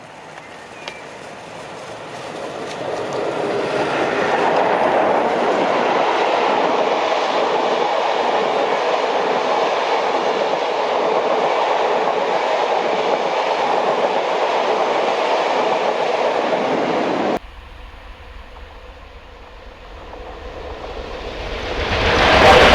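Train hauled by a Royal Scot class steam locomotive passing at speed: a steady rush of wheels on rail builds over a few seconds and holds loud, then cuts off abruptly about three-quarters through. Another loud sound swells up in the last few seconds.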